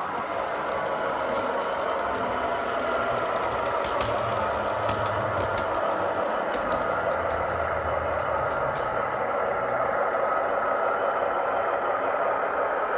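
OO-gauge model Class 166 diesel unit running on its layout, its DCC sound decoder playing diesel engine sound through the model's small speaker over the mechanical running noise, with a few light clicks along the way.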